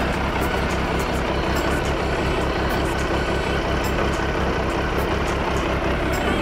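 Triumph Sprint ST 955i's fuel-injected 955 cc three-cylinder engine idling steadily.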